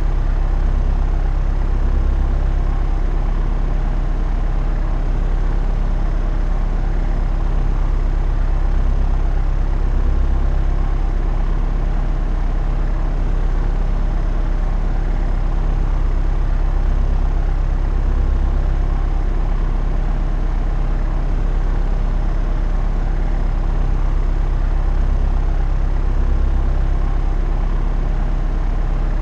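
Propeller aeroplane in cruising flight: a steady, low engine and propeller drone that swells slightly about every eight seconds.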